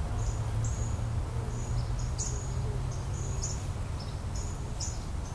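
Honeybees buzzing around an opened top-bar hive: a steady low hum. Short high chirps repeat in the background.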